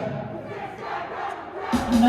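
A group of voices shouting in a gap in the band's music. Near the end the band comes back in with a loud sustained low note.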